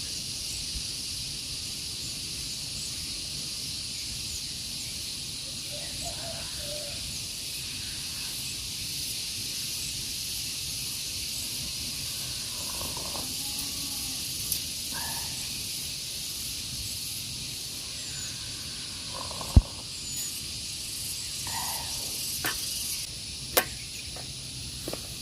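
Steady high-pitched insect chorus, with faint bird calls and a few sharp clicks, the loudest about two-thirds of the way through.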